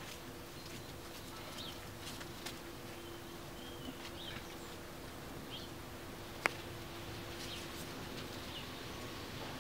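Faint yard ambience: small birds give short high chirps every second or two over a steady low hum, with one sharp click about six and a half seconds in.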